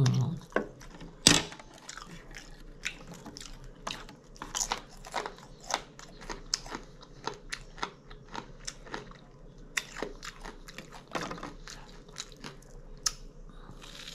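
Close-miked chewing and biting of food, with many small irregular crunchy clicks and a sharper, louder click about a second in.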